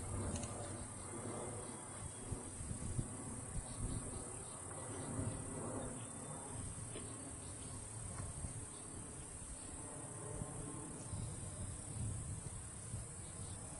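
Steady high-pitched insect chorus, with an uneven low rumble underneath.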